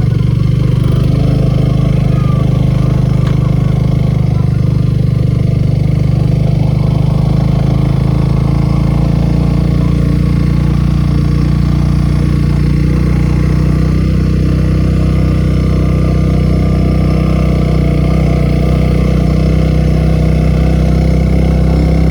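Motorcycle engine running at a steady, unchanging speed while riding.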